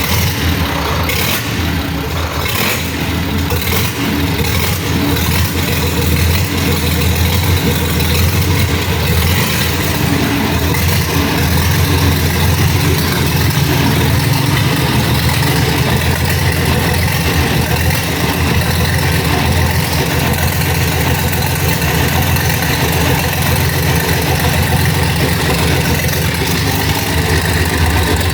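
Ikarus bus diesel engine running just after being started following a major overhaul, a steady, loud idle with some uneven clatter in the first few seconds before it settles.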